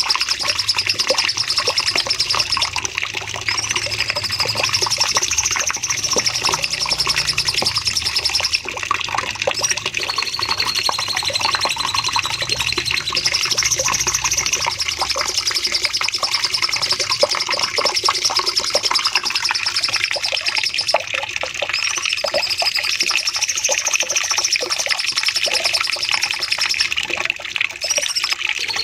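Cucak cungkok songbird singing long, dense strings of rapid trills and chatter ('nembak panjang', long shooting phrases) without a break. The same song passage recurs about every nine seconds, as in a looped training recording.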